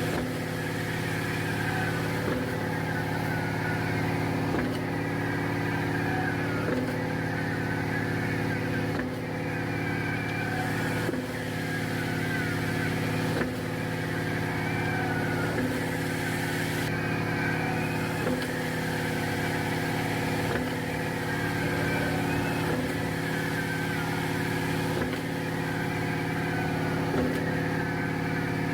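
Concrete mixer truck's diesel engine running steadily, with a faint knock about every two seconds.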